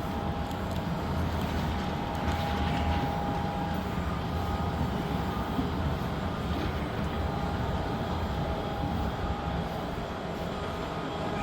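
Wind buffeting the microphone: a steady, gusting low rumble, with a faint steady high-pitched whine under it.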